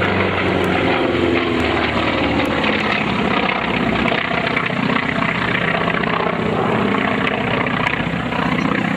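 Radial piston engines of an F4U Corsair (18-cylinder Pratt & Whitney R-2800) and an FM-2 Wildcat (nine-cylinder Wright R-1820) on a flyby: a loud, steady engine drone whose pitch drops as the fighters go past, about one to three seconds in.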